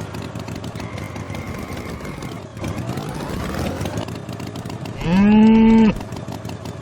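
A cow mooing once, a loud call about a second long that starts about five seconds in and rises slightly in pitch. Before it, a steady noisy rumble.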